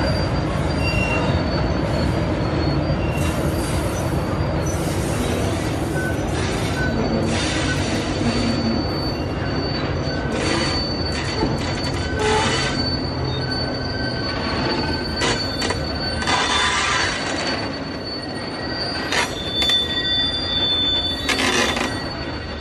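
Loaded iron-ore gondola wagons rolling slowly past close by: a steady rumble of steel wheels on the rail, with high-pitched squeals and short scraping hisses from the running gear coming and going every second or two.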